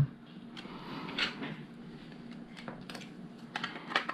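Plastic LEGO pieces clicking as they are handled and pressed together: a few scattered light clicks.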